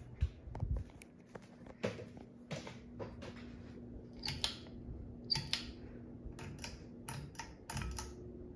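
2013 Hunter Wellesley ceiling fan running with a faint steady hum, under a string of irregular clicks and rustles.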